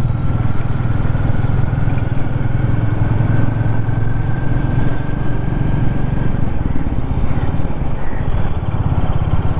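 Royal Enfield Classic 350's single-cylinder engine running steadily as the motorcycle is ridden, with its exhaust giving a dense, even low pulsing and no change in pace.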